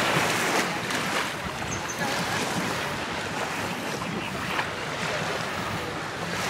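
Surf washing up on a sandy beach, the noise swelling and easing every second or two, with wind buffeting the microphone.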